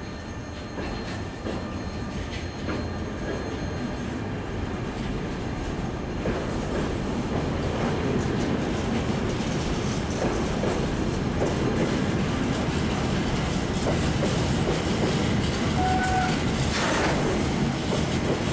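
Intermodal freight train rolling past at close range, its wagon wheels rumbling and clicking on the track, getting louder about six seconds in. A short high squeal comes near the end.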